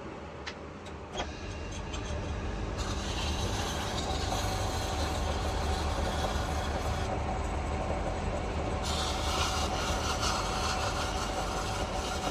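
Metal lathe running with a steady low hum, a few clicks in the first second or so, and louder from about two seconds in. A higher hiss comes in twice and stops abruptly each time.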